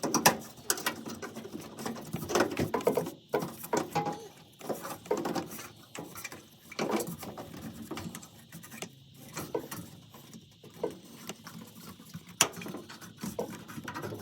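Sheet metal being handled and worked by hand: irregular clicks, scrapes and light knocks of metal against metal, with a sharper knock about twelve seconds in.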